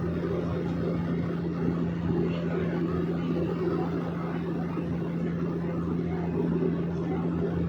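Small private airplane's engine and propeller droning steadily, a constant low hum with an even rushing noise over it.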